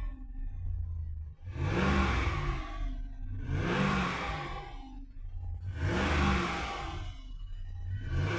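2016 Dodge Ram pickup's engine revved from idle again and again, about every two seconds, its pitch rising and falling back each time.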